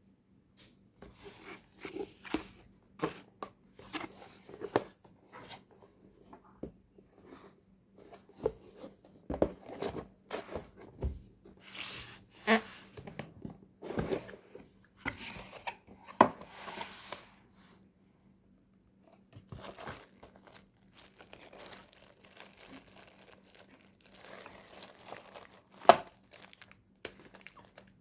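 Cordless drill packaging being opened and handled: irregular crinkling, tearing and rustling, with a short lull a little past halfway and two sharp knocks, one about halfway through and one near the end.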